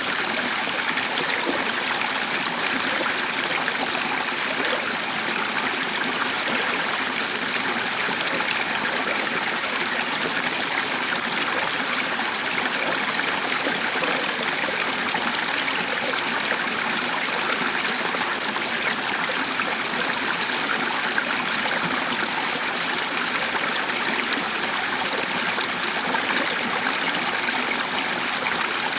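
A stream of flowing water running steadily, an even rushing and trickling with no breaks.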